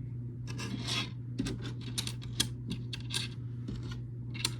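Small plastic building bricks clicking and rattling against each other and the table as they are picked through and sorted by hand, in a string of irregular light clicks and rustles.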